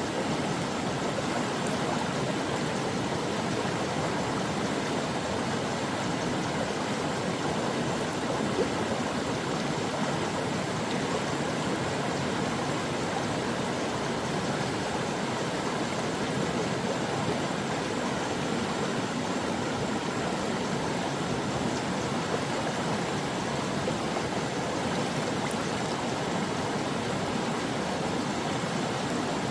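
A mountain stream flowing steadily over rocks, a continuous rushing and burbling of water.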